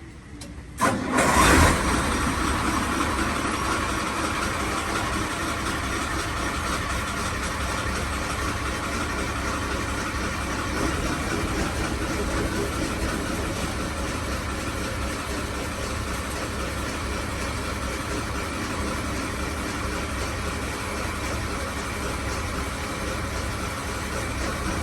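Boat engine that comes in suddenly about a second in, then runs steadily.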